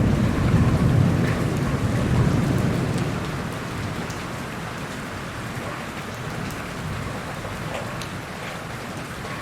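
Steady rain falling, with a low rumble of thunder in the first few seconds that dies away, leaving the rain alone with scattered drop ticks.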